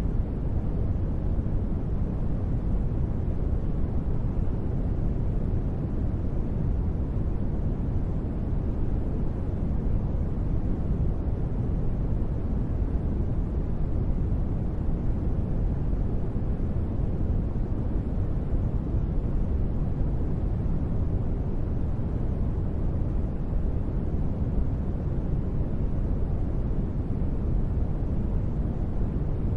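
Steady, unchanging noise of the kind laid down for sleep and relaxation, weighted toward a deep low rumble with little hiss on top.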